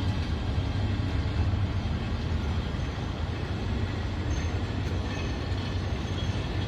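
Train running on the rails with a steady low rumble.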